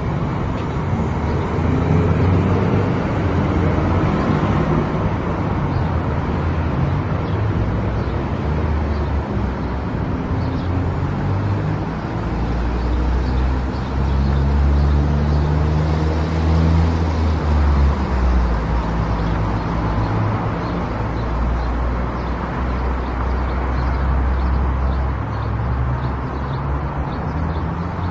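Car driving at highway speed: steady road and tyre noise with a low engine hum that shifts a little in pitch.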